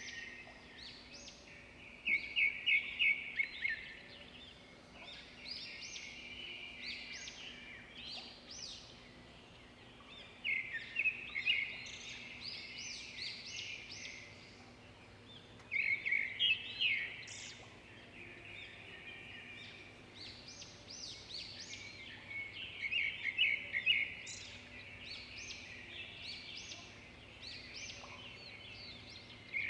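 Swiftlets chirping in rapid, rattling trills, loud bursts coming about every six to seven seconds with softer chirps in between.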